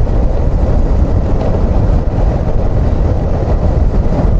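Suzuki XF650 motorcycle's single-cylinder engine running steadily, with heavy low wind rumble on the microphone.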